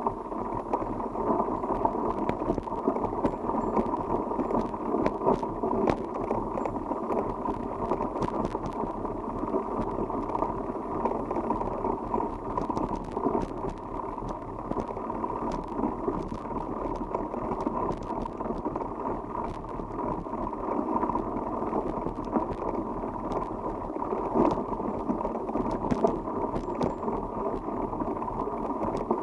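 Riding noise from a bicycle on the move: a steady rumble of tyres and wind, with many small clicks and rattles throughout.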